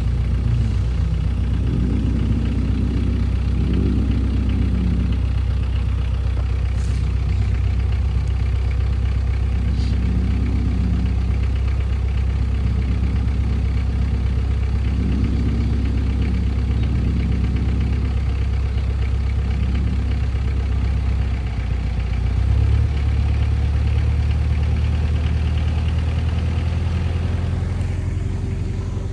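Engine of an off-road 4x4 vehicle running steadily with a low drone, its note shifting about three-quarters of the way through.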